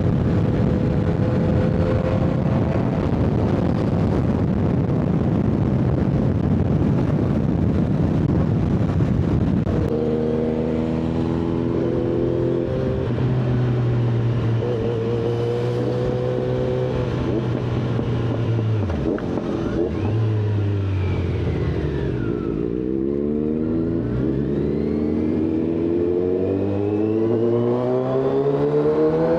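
Superbike engine running at road speed under rushing wind noise. About a third of the way in the engine note comes clear and holds steady, falls away as the bike slows, then rises in climbing sweeps as it accelerates again near the end.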